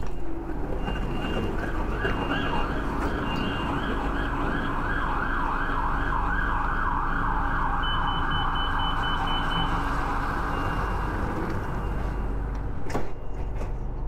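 BTS skytrain car running, with a wavering, repeating whine that swells over several seconds and then fades. A sharp knock sounds near the end.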